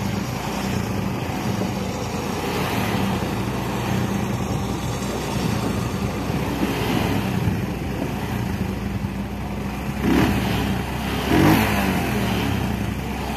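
Motorcycle engine running steadily, its revs rising a couple of times near the end.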